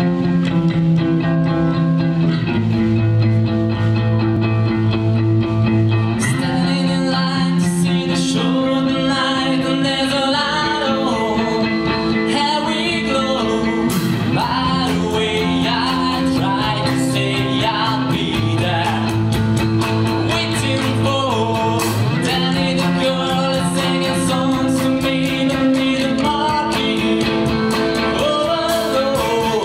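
A rock band playing a song: guitar chords over steady bass notes, with a voice singing and cymbal strokes joining about six seconds in.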